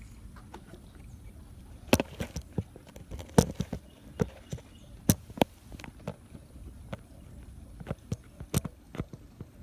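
Footsteps of a person walking: irregular sharp snaps and knocks.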